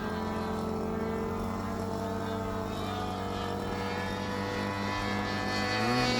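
An engine running at a steady pitch, with a slight drift, then shifting pitch and getting louder near the end.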